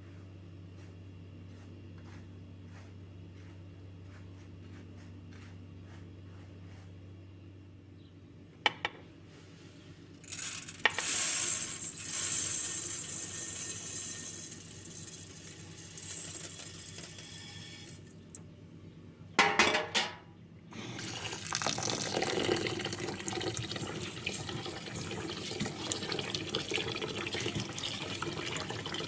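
Water poured into a pot or bowl, in a loud rush that tails off, then pouring again steadily through the last third, with knocks of dishes and pots in between. Before that, a faint steady hum.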